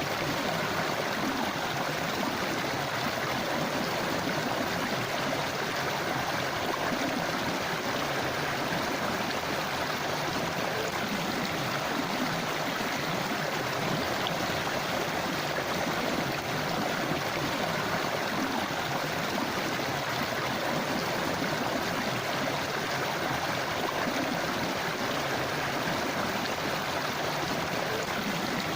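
River water flowing steadily over stones, a constant rushing and babbling stream.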